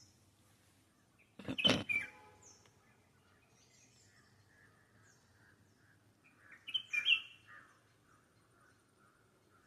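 Birds calling: a loud flurry of chirps about a second and a half in and another around seven seconds, with softer repeated notes in between.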